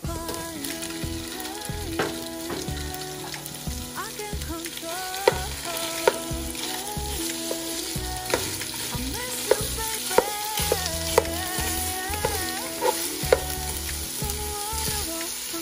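Chopped onion and garlic, then raw pork pieces, sizzling in hot oil in a nonstick pan. A plastic spatula stirs them, with sharp knocks against the pan several times in the second half. Soft background music plays underneath.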